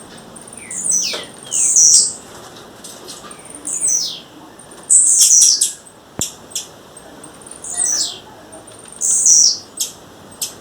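Blue-black grassquit calling: short, high-pitched notes that sweep downward, repeated every one to two seconds, with a few sharp clicks between them.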